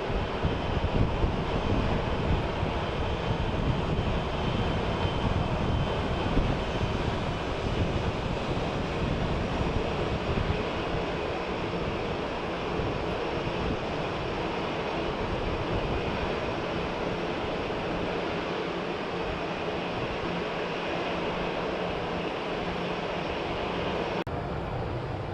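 Jet airliner engines: a steady rushing noise that is loudest over the first several seconds and then slowly eases off, with wind buffeting the microphone.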